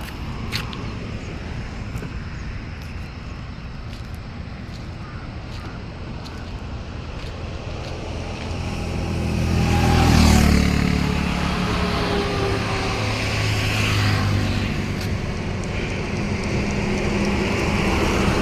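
Diesel engine of a Sany motor grader running, building to a louder peak about ten seconds in, easing off, then running on steadily.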